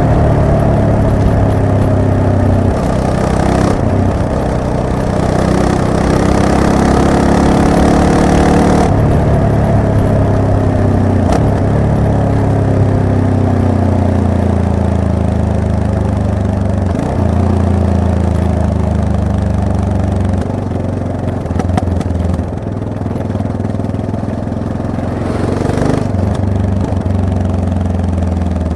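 Yamaha MT-03 motorcycle engine running under way, its note holding steady at first and then dropping in pitch several times as the throttle is rolled off.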